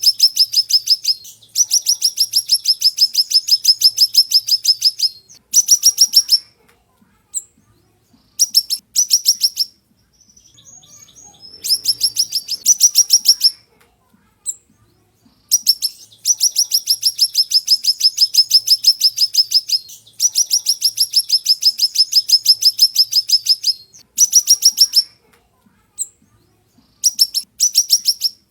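Siri-siri songbird singing a fast, high-pitched trill of rapidly repeated sharp notes, many per second. It sings in repeated bursts of one to four seconds with short pauses between them, and most bursts turn slightly upward at the end.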